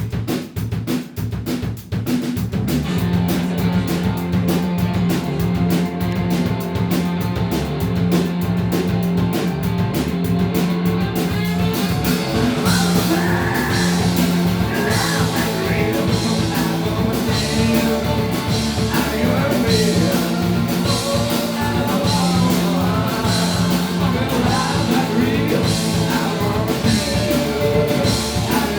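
Live rock band opening a song: the drum kit plays alone at first, a repeating bass line joins about two seconds in over steady hi-hat, and singing comes in around the middle.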